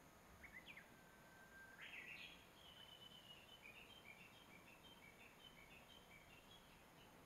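A songbird singing faintly: a long steady whistle, then a quick rising flourish about two seconds in, followed by a run of short high notes that goes on for several seconds.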